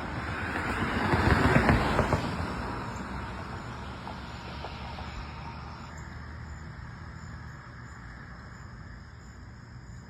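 A vehicle passing by, loudest about a second and a half in, then fading away. Insects chirping in a steady high rhythm come through behind it in the second half.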